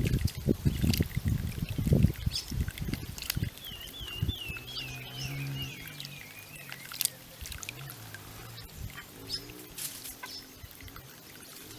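Water fountain trickling and splashing, with heavy splashing in the first two seconds or so as small birds bathe close to the microphone. About four seconds in, a bird gives a wavering call that falls slowly in pitch for a couple of seconds.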